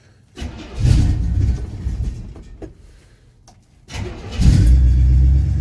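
1967 Chevy C10 truck engine cold-starting: it cranks and fires about half a second in, then fades away. It catches again about four seconds in and settles into steady running.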